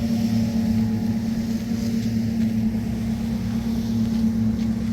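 An engine running steadily: an even low drone with a constant hum.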